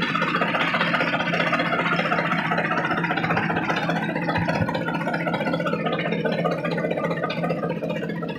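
Tractor engine running steadily, with background music mixed in.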